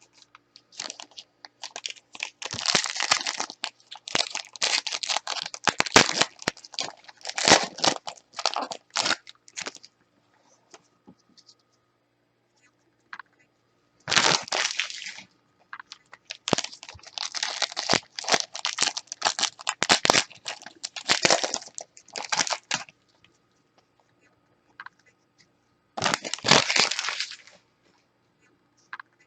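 Trading card pack wrappers being torn open and crumpled by hand, in four bursts of crinkling and tearing with short pauses between.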